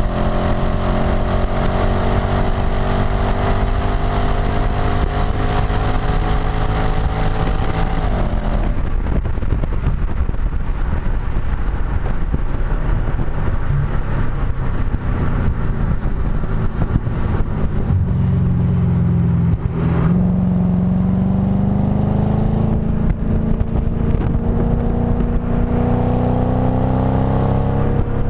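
Audi B7 S4's 4.2-litre V8 heard close at the STaSIS exhaust under hard track driving. The engine pulls with slowly rising pitch, and its note drops sharply about eight seconds in. After some seconds of lower, rougher running, it climbs in pitch again through the last third.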